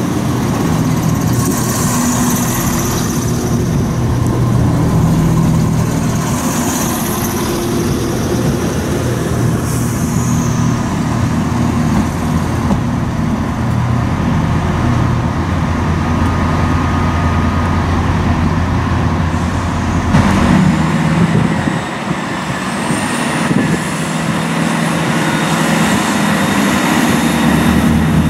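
Diesel train engines running steadily, with a low engine hum whose note changes about two-thirds of the way through. A thin high whine rises shortly after.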